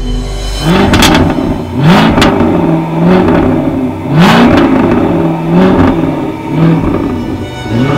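Jaguar sports car engine revved again and again, about six times. Each rev climbs quickly in pitch, holds briefly, then drops back.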